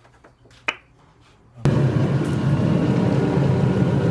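A click or two over near quiet, then about one and a half seconds in a steady mechanical drone of workshop machinery starts abruptly and keeps running.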